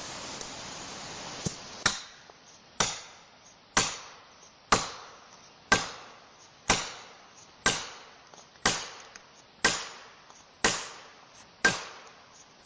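Wood being chopped with regular, sharp strikes, about one a second, each ringing out briefly; a steady hiss comes before the first strike, about two seconds in.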